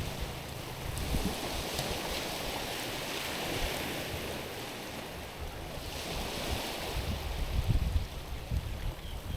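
Small waves washing over stones and pebbles on a rocky shore, a steady hiss of water running among the rocks. Low wind rumble on the microphone comes and goes near the end.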